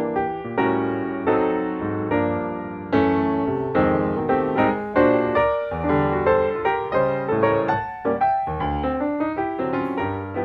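Background music: piano playing a melody over chords, notes struck and left to ring.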